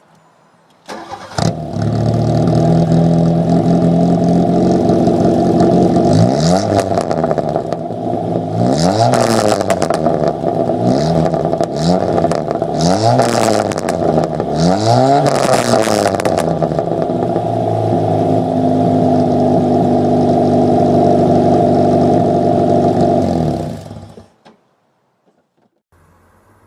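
VW Mk1 Golf engine starting about a second in and idling, then revved about five times in quick succession before settling back to idle, and switched off near the end.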